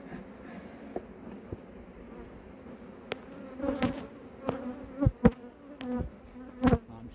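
Swarm of honeybees buzzing around an open hive in a steady hum, louder in the second half as bees fly close past, with a few sharp knocks near the end.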